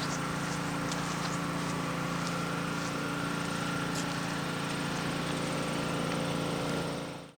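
1979 Toyota Land Cruiser's engine running at a steady, even speed, fading out near the end.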